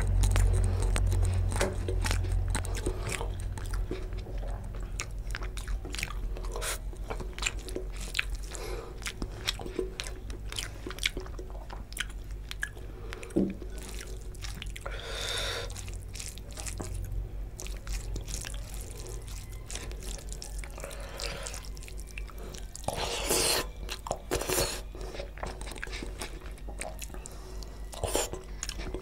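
Close-miked chewing of rice and fish curry: wet mouth clicks and smacks. Several louder bursts come in the second half.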